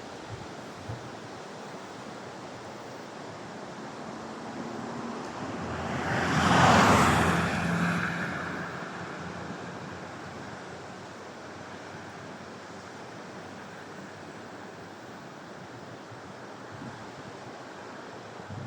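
Steady rush of surf and wind buffeting the microphone, with one louder rush swelling up and fading away over a few seconds around the middle.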